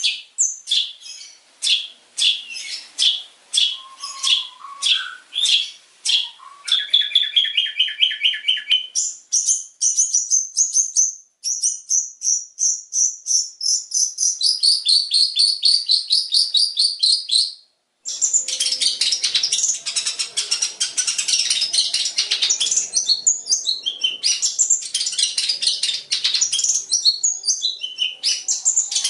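Long-tailed shrike (cendet) singing: runs of sharp, high repeated notes, about four a second at first, speeding into fast trills. After a brief break just before the halfway point, it goes into a dense jumbled chatter of mixed calls, typical of the shrike's mimicry.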